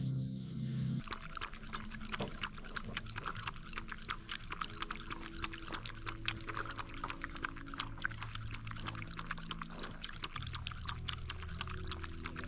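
Dense, irregular crackling clicks that start about a second in, over soft background music with long held low notes.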